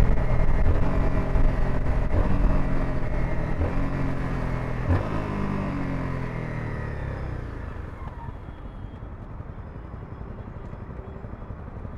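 Honda CBR 250R's single-cylinder engine running on the move, its note stepping in pitch several times in the first five seconds. The sound then fades over the next few seconds to a quiet low rumble.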